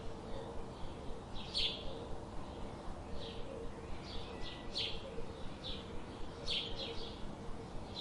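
Small birds chirping: short, high chirps repeated about once a second, over a faint steady low hum.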